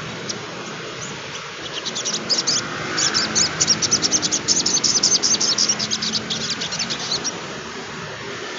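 Sunbird (sogon trotol) singing a fast, high chattering trill of short rapid notes, starting about a second and a half in and stopping about seven seconds in, over a steady background hiss.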